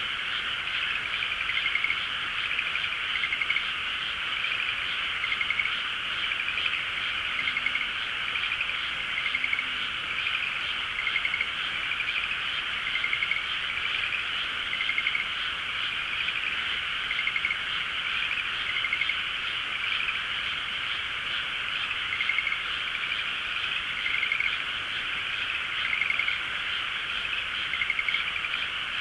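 A dense chorus of many frogs calling at once, steady and unbroken, with single pulsed croaks standing out over the mass about once a second.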